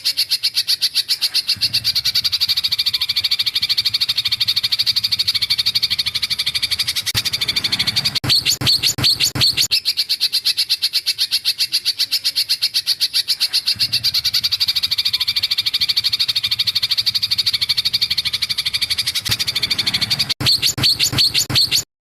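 A bird's rapid rattling trill, many evenly spaced notes a second held on without a break. A coarser, louder stretch comes about eight seconds in and again near the end, and the sound cuts off suddenly.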